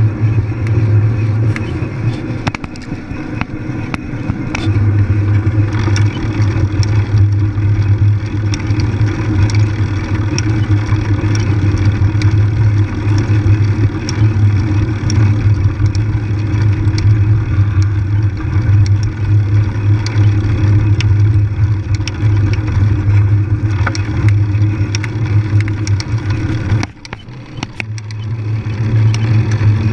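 Steady low rumble and rattle of a bike being ridden along a trail, with scattered clicks and a short dip in level near the end.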